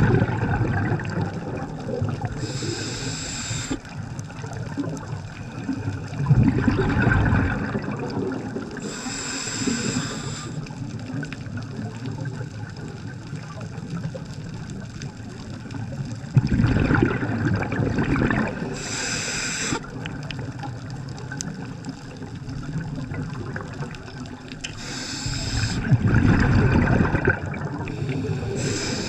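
Scuba diver breathing through a regulator underwater: a short hissing inhalation every several seconds, each followed a few seconds later by a low burst of exhaled bubbles, about four breaths in all.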